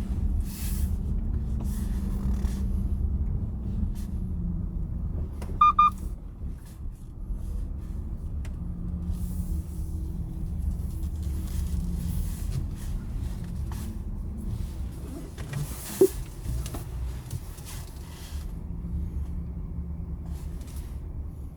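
Volkswagen ID.4 electric car driving: steady low road and tyre rumble with a faint shifting hum. A short double electronic beep sounds about six seconds in, and a sharp click about sixteen seconds in.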